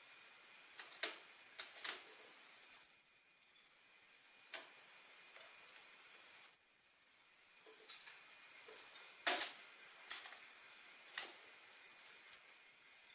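Orange-headed thrush giving its sharp, high 'ngecis' call, a single whistle sliding downward, three times a few seconds apart. A steady high-pitched hum and a few light clicks sound in the background.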